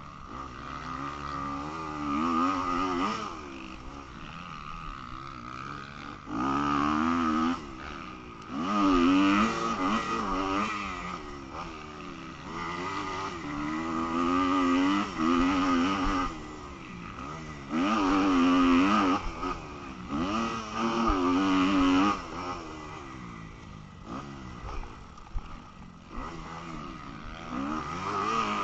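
Motocross bike engine revving up and dropping off again and again under hard throttle, with several loud bursts lasting a second or two each.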